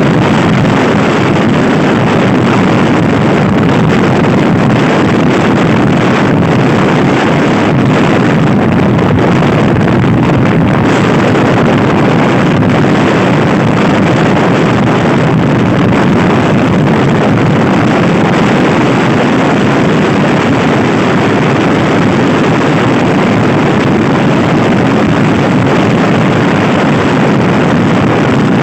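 Loud, steady wind buffeting the microphone of a camera on a Honda Scoopy-i scooter ridden at speed, with no let-up.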